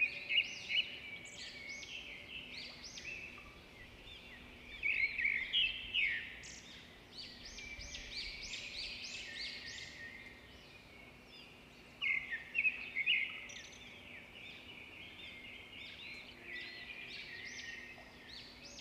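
A chorus of small birds chirping and twittering, in dense bursts about five seconds in and again about twelve seconds in, over a faint steady hum.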